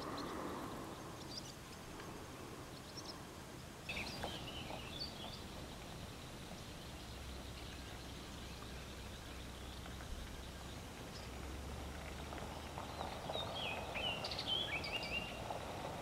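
Faint outdoor ambience with brief bird chirps: a short run about four seconds in and a longer one near the end, over a low hum through the middle.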